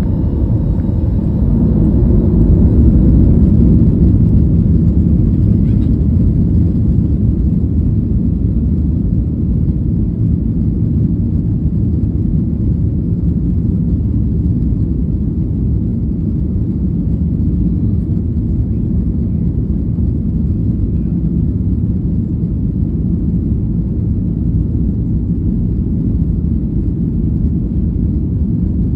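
Airplane taking off: a loud, steady, deep rumble of engines and rushing air, at its strongest a few seconds in, then holding steady.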